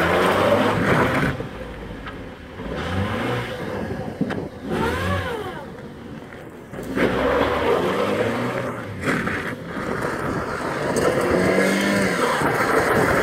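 A Nissan Micra's engine revving up and dropping back in several surges, its pitch climbing and falling, as the car is driven hard and spun around on rough ground.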